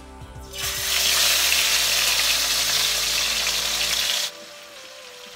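Chicken pieces frying in hot canola oil in a wok, a loud steady sizzle that starts about half a second in and cuts off abruptly near the end.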